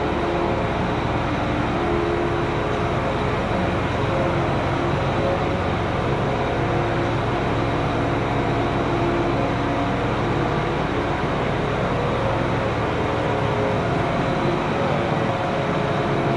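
Tractor engine running steadily, with a few faint tones wavering slightly in pitch.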